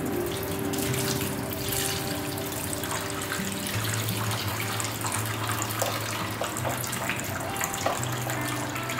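Hot water poured from a pan into a stainless steel sink, splashing steadily, with a tap running thinly alongside: the boiling water being drained off wilted, blanched napa cabbage through a mesh strainer.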